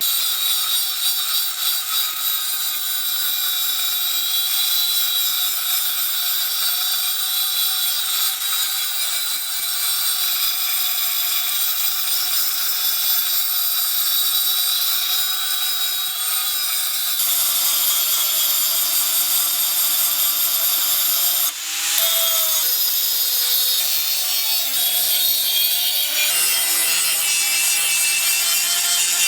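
Electric abrasive power tool grinding or sanding the rusted steel of a sword blade, a continuous harsh abrasive noise over a motor hum whose pitch sags and recovers as it is pressed in. The sound changes abruptly twice, about two-thirds of the way in.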